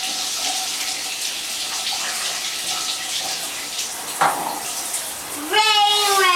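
Running water, a steady hiss, from a bath or shower. A child starts singing again about five and a half seconds in.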